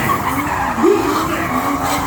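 Drifting car with a 2JZ straight-six: tyres squealing as the engine revs and rises in pitch, sharpest about a second in.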